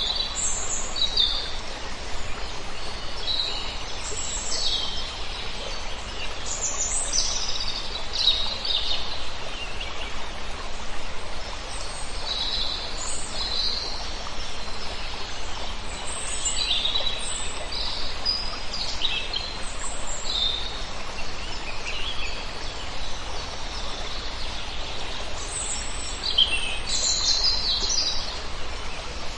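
A flock of birds calling: many short, high chirps scattered throughout, over a steady background hiss.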